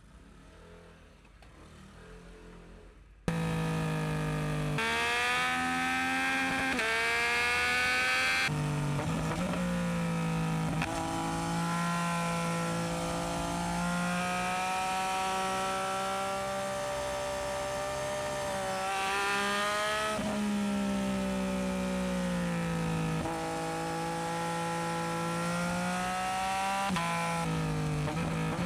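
Yamaha MT-09SP's inline three-cylinder engine through a Dominator aftermarket exhaust, accelerating hard under load: the pitch climbs and then drops sharply at each upshift, then holds at steady revs before easing off. It comes in abruptly about three seconds in, after a faint start.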